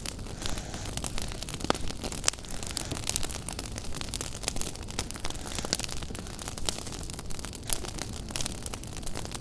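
Wood fire in a fireplace crackling, with frequent irregular sharp pops and snaps over a steady low rush.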